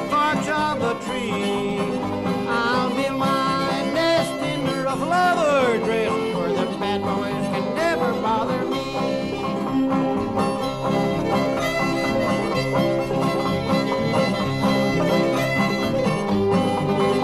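Bluegrass string band playing an instrumental break: banjo, fiddle and guitar, with the fiddle sliding between notes about five seconds in.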